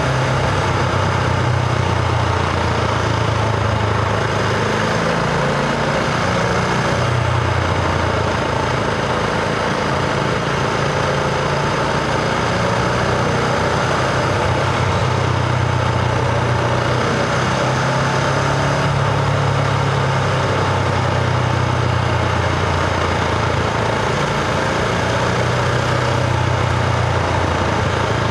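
Husqvarna Vitpilen 701's single-cylinder engine running at a steady pace, its exhaust note moving only slightly up and down in pitch, with wind and road noise.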